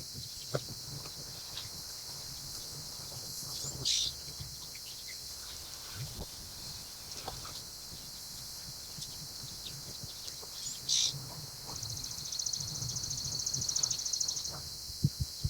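Birds chirping outdoors: a few short high calls and a rapid high trill near the end, over a low background rumble and a few faint clicks.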